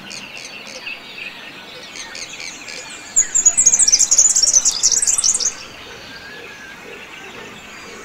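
Several birds calling in a wetland chorus. A bit over three seconds in, one bird breaks in with a loud, rapid, high-pitched song of many quick notes, which stops about two seconds later.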